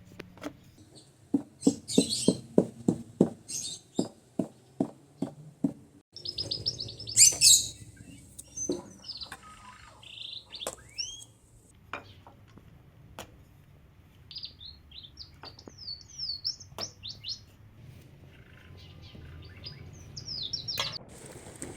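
Small birds chirping, with many short, quickly sliding high calls. For the first six seconds a run of evenly spaced knocks, about three a second, sounds alongside and then stops.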